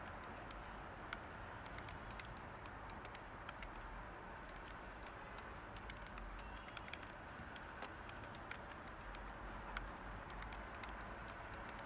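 Light, irregular computer keyboard typing: scattered single key clicks over a steady hiss of white noise.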